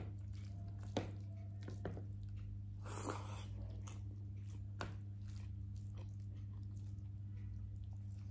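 A person eating a meal of rice and fried chicken close to the microphone: chewing with a few sharp clicks and a short noisy burst about three seconds in, over a steady low hum.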